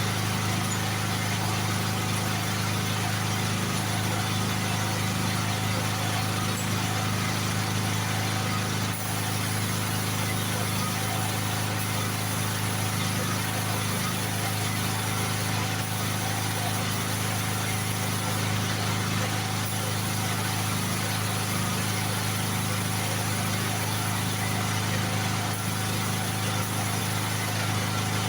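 Portable generator's engine running steadily at an even pitch.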